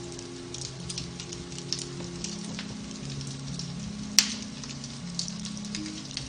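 Beech-log fire crackling in a fireplace, with scattered small snaps and one loud pop about four seconds in, over soft, slow piano music with held notes.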